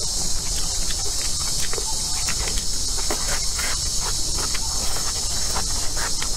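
Close-up eating sounds of a person biting and chewing green vegetables and noodles: many short, irregular crisp clicks of chewing. Underneath runs a steady high-pitched drone of insects.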